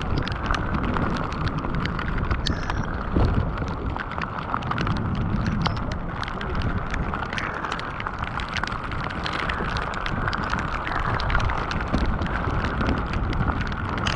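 Heavy rain falling, with many drops striking close by as sharp ticks over a steady low rumble.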